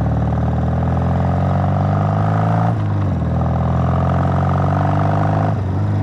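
1968 Triumph Bonneville's 650 cc parallel-twin engine pulling under load. Its pitch climbs steadily, drops sharply about three seconds in, climbs again and drops again near the end, as when accelerating through the gears.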